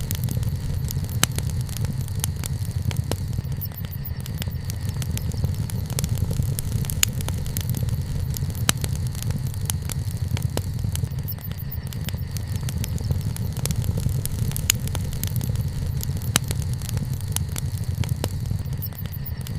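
Wood campfire burning: a steady low rumble with frequent sharp, irregular crackles and pops.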